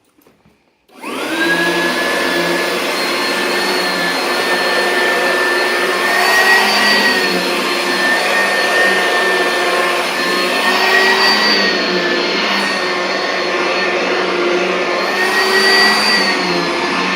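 Oreck XL2800 upright vacuum cleaner switched on about a second in, its motor spinning up within a moment and then running with a steady high whine. The pitch rises and dips a little every few seconds as it is worked over carpeted stairs.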